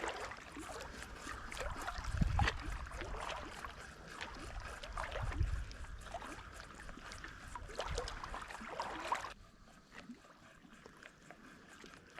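Water lapping and sloshing with scattered small clicks and a few low rumbles, turning suddenly quieter about nine seconds in.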